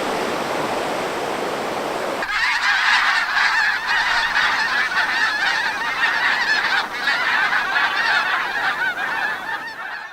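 Surf noise, then from about two seconds in a large flock of geese calling: many overlapping honks at once.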